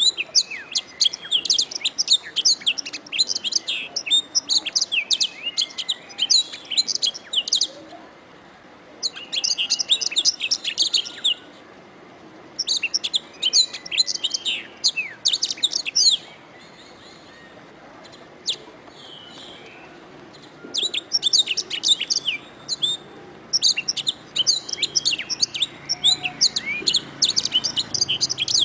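Domestic canary singing: fast chirps and trills in bouts of a few seconds, broken by short pauses, with a longer pause past the middle.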